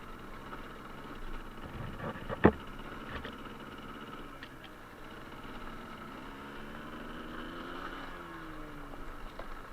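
Suzuki TS125R's two-stroke single-cylinder engine running steadily at low revs. A sharp knock comes about two and a half seconds in, followed by a few faint ticks.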